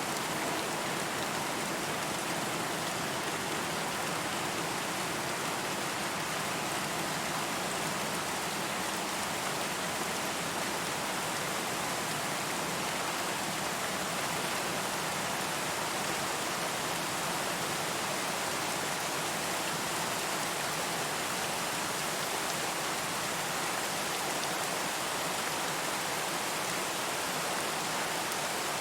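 Steady rain falling, an even hiss without thunder or separate drops standing out.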